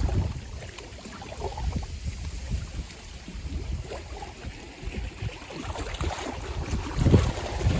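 Strong typhoon wind buffeting the microphone in uneven gusts, with small waves lapping at the lakeshore; louder about seven seconds in.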